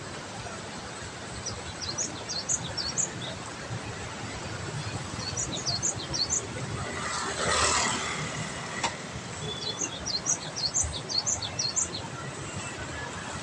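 Steady hiss of rain in woodland, with small birds giving quick high chirps in three bursts. About seven seconds in, a louder rush of noise swells and fades.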